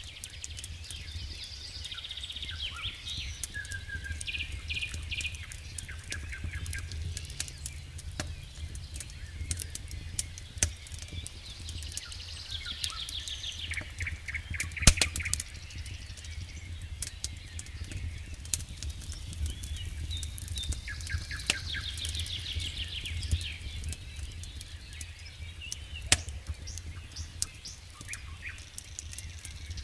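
Campfire crackling with frequent sharp pops, one loud pop about halfway through, while birds sing trills and chirps in repeated phrases.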